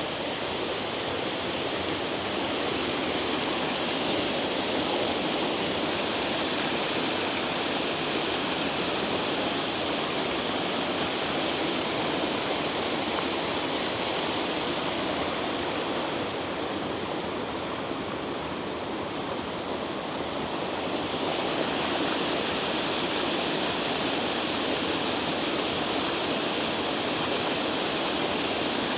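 Waterfall: a steady, loud rush of falling water, dipping a little in loudness for a few seconds about halfway through.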